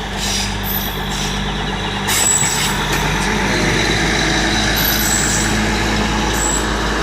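Duomatic railway track tamping machine running: a steady engine noise with hissing and clatter, growing a little louder about two seconds in, with short high squeaks a few times.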